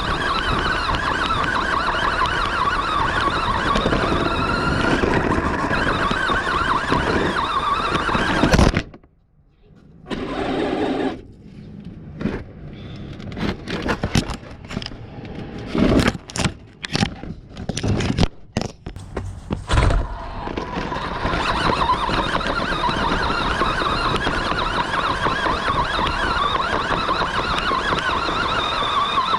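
Remote-controlled monster truck running, its motor and drivetrain whining with tyre noise. The running cuts out suddenly about nine seconds in, followed by a scatter of sharp knocks and short bursts, then it runs steadily again from about two-thirds of the way through.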